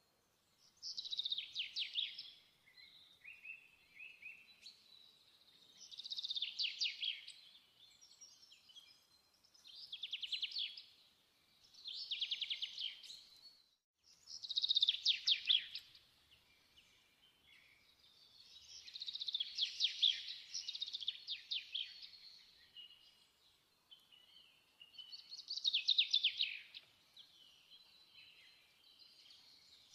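A songbird singing short trilled phrases, one every three to four seconds, each a rapid run of notes lasting a second or two.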